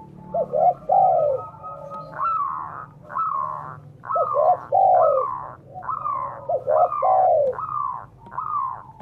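Spotted doves and zebra doves (derkuku and perkutut) cooing together. One bird repeats a falling coo about every 0.7 seconds from about two seconds in, while another gives a lower phrase of short notes ending in a long falling coo, three times.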